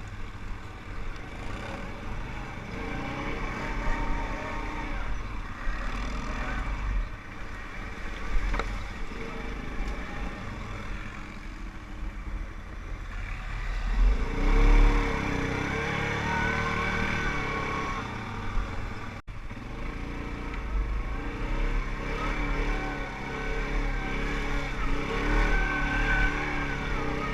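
Quad bike (ATV) engine running, with the engine note rising and falling as it is revved; it grows louder and clearer about halfway through.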